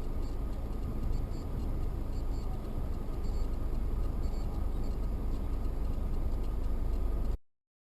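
Steady low rumble of a car driving, heard from inside the cabin, with faint regular ticking over it. It cuts off suddenly near the end.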